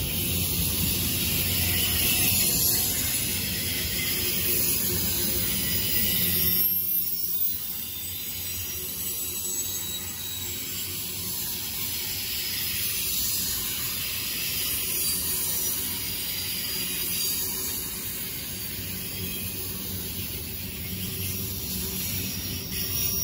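Double-stack intermodal freight cars of a CSX train rolling past at close range: a steady rush of steel wheels on rail with a hiss over it, a little quieter from about seven seconds in.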